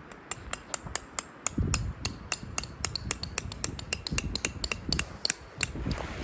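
Tent fabric snapping and cracking in gusty wind: a quick, irregular run of sharp snaps, about four or five a second, over a low wind rumble.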